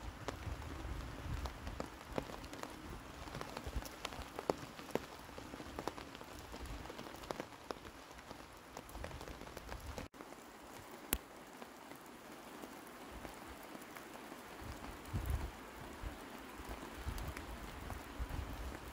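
Steady rain falling in a conifer forest, with many separate drops tapping on a wet tent's flysheet and the ground around it. The sound cuts out for an instant about ten seconds in.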